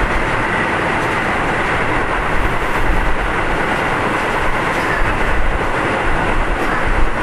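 Running sound of a Keio 7000 series field-chopper-controlled train (car 7053), heard from inside the car: a steady rumble of wheels on rail, with a few louder knocks from rail joints.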